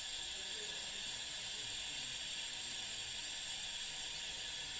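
Kohler Wellworth toilet tank refilling: a steady hiss of water running in through the fill valve, a slow fill that takes two to three minutes.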